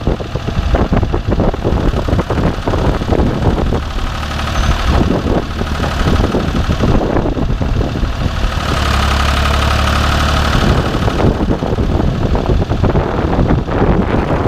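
Ford 4500 backhoe loader's engine running, with a fast, even knock of firing pulses. About two-thirds of the way through it goes louder and steadier for a couple of seconds, then settles back.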